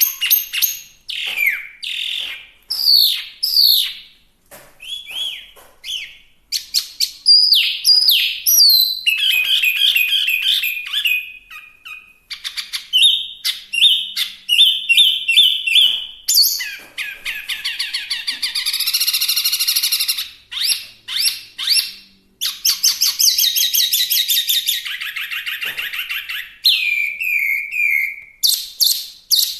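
Chinese hwamei singing a long, varied song: quick runs of whistled notes and trills, broken by stretches of dense, harsh chattering about midway and again later.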